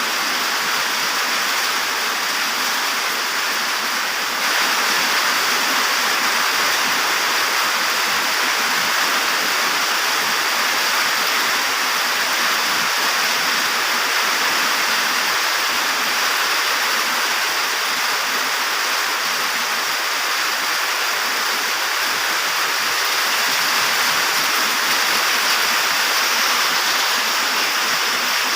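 Steady hiss of light rain and strong wind, an even rushing noise that gets a little louder about four and a half seconds in.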